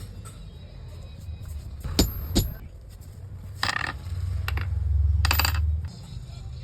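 Small metal parts clinking and clicking while an angle grinder is handled: a few separate clicks, a short clatter, then a quick run of clicks, over a low rumble.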